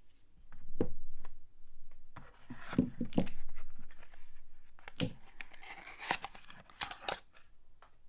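Soap wrapping being torn open and crinkled by hand, in two rustling stretches, with a few dull knocks about a second in, around three seconds and around five seconds.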